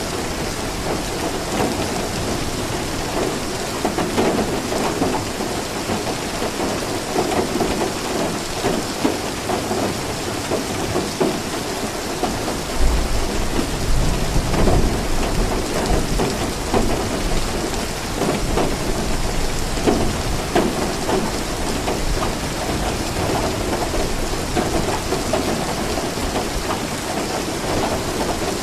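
Steady rain falling, with a low rumble of thunder rolling in about halfway through.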